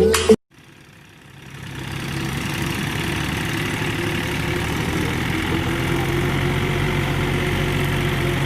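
Kubota tractor's diesel engine running steadily, fading in about a second in and then holding an even level, just after background music cuts off.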